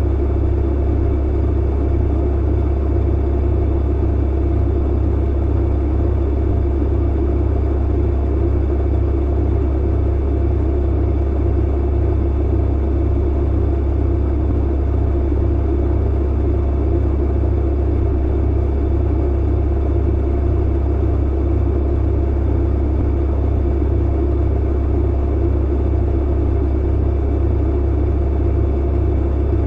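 Clothes dryer running steadily: a deep, even hum and rumble of the motor and tumbling drum, unchanging throughout.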